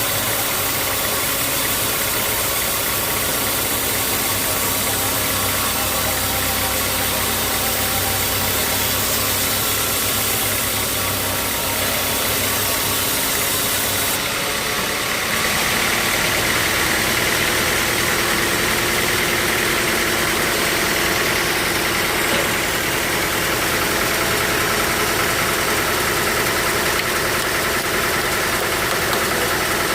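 Sawmill machinery running steadily; about halfway through its note changes and a higher whine comes in and holds.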